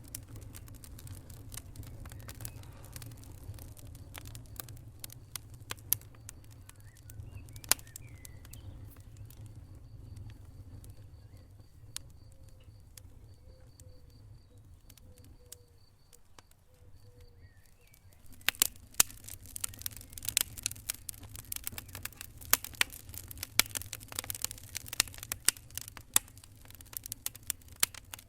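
Wood fire in a fireplace crackling: a low steady rumble of flames under scattered sharp pops and snaps. The crackling grows much denser and louder about two-thirds of the way in.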